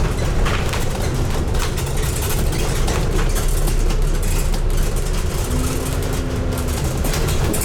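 Scania N250UD double-decker bus engine running, a steady deep rumble heard from on board, with interior rattles and clicks over it. A brief steady tone sounds about two thirds of the way through.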